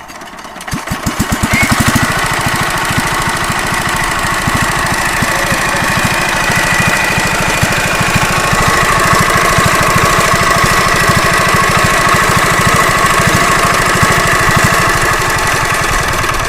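Mini diesel water-pump engine starting: its strokes quicken under a second in and it catches about two seconds in, then runs steadily with a fast knocking beat.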